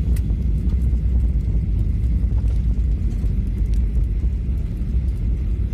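Steady low rumble heard inside an airliner cabin as the plane rolls along the ground after landing, with a few faint, irregular clicks.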